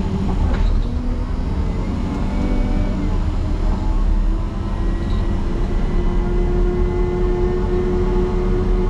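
Motor grader's diesel engine running hard under load, pushing its plow through a deep snow drift. The engine pitch shifts in the first few seconds, then holds steady.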